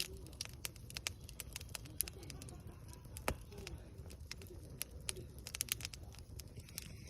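Wood campfire crackling with scattered sharp pops, the strongest about three seconds in, over a low rumble. A dove coos faintly in the background, a low repeated call.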